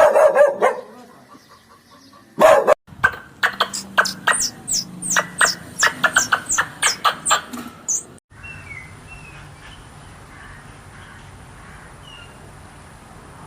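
A dog barking near the start, then a quick run of sharp bird chirps with high falling notes, several a second, for about five seconds. It ends in a faint steady hiss with a thin high tone and a few soft chirps.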